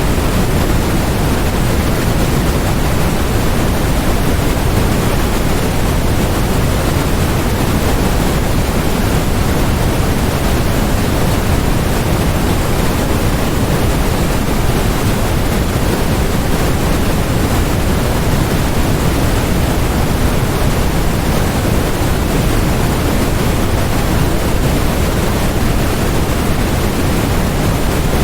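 Steady, unchanging electronic noise from a white-noise track, an even hiss with more weight in the low end than the high.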